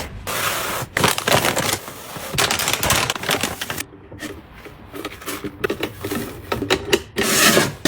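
Close-up handling of packaging and containers: rustling and crinkling with scattered sharp clicks and taps, loudest near the end.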